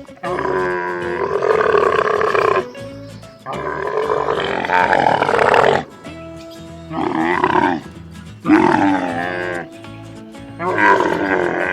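A camel calling: about five long, wavering groaning calls, each a second or two long, over steady background music.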